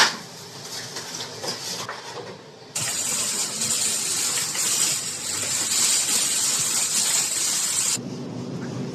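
A steady hiss that starts suddenly about three seconds in and cuts off suddenly about five seconds later.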